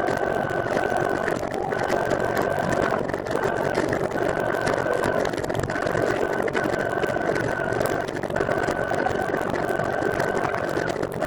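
Recumbent trike rolling along the road, with a steady running rumble and a high whine that breaks off briefly about once a second.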